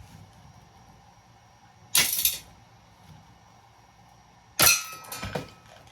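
Pieces of scrap metal being handled: a short rattling clatter, then a couple of seconds later a sharp clank with a brief metallic ring, followed by a few smaller knocks.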